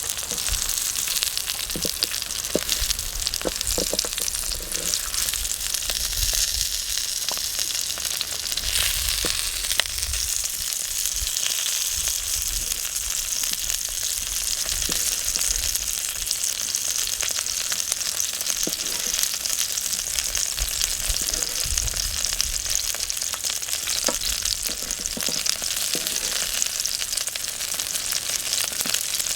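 Food sizzling steadily in a pan over a wood fire, with many small pops and crackles throughout.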